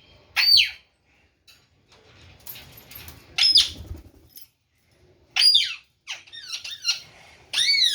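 Young white parrot calling: four loud screeching calls about two seconds apart, each sweeping sharply up and then down in pitch, with softer chattering between the last two.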